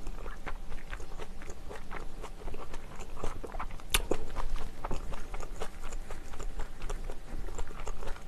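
Close-up chewing and biting of a mouthful of herring-roe bibimbap with kimchi: a run of small wet crunches and mouth clicks, with one sharper click about four seconds in.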